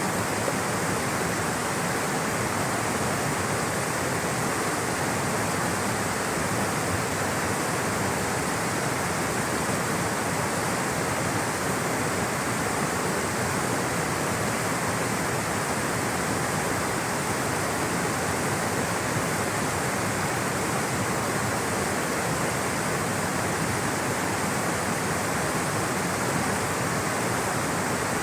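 Rushing water flowing steadily, a constant even rush without changes.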